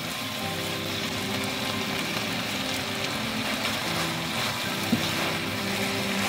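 Pork and kimchi sizzling steadily in a frying pan while a spatula stirs and tosses greens through them. There is one sharp click about five seconds in.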